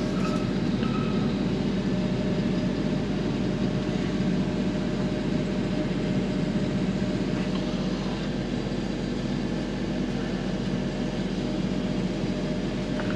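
Steady drone of a running motor-driven machine, even in level with a low hum and a faint steady whine above it.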